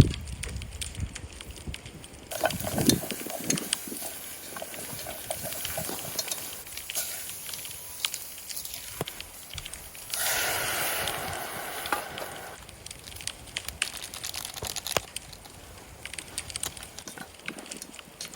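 Wood campfire crackling, with frequent sharp pops, and a louder stretch of hissing from about ten to twelve seconds in.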